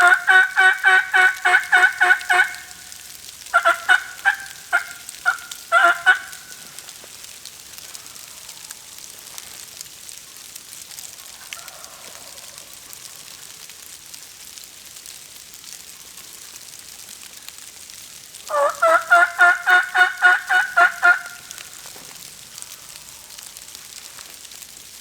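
Wild turkey toms gobbling: a loud rattling gobble right at the start, a broken second gobble a few seconds later, and another about three-quarters of the way through.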